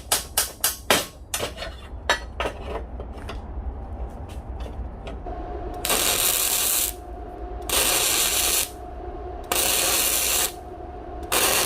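A quick run of metal taps and knocks on steel, then four separate bursts of arc welding, each a hissing crackle about a second long, as bolts are tacked onto a steel stove door.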